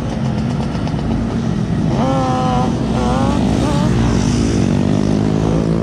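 Dirt bike engine running at fairly steady revs, the pitch creeping up slightly near the end.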